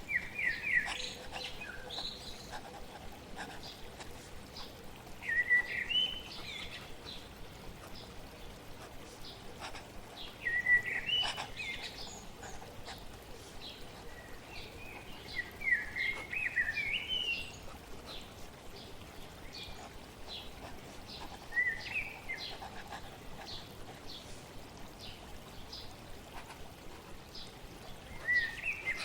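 A songbird singing short warbled phrases, about one every five seconds, over a steady soft hiss of flowing water, with faint small scratches and taps of writing on paper.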